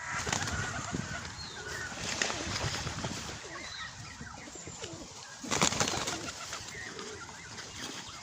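Birds calling outdoors: many short, high chirps and twitters over a steady background hiss, with a brief louder rush of noise about five and a half seconds in.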